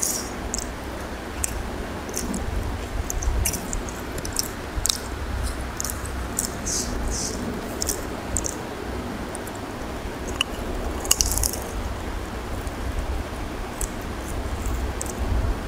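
Close-up chewing of rice and curry eaten by hand, with many short wet mouth clicks and smacks scattered throughout. Between mouthfuls there is the soft squish of fingers mixing rice and curry on the plate.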